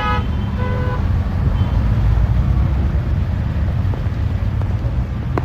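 Steady low rumble of a moving bus and road traffic, heard from inside the bus, with a vehicle horn honking at the start and briefly again about a second in. A sharp knock near the end.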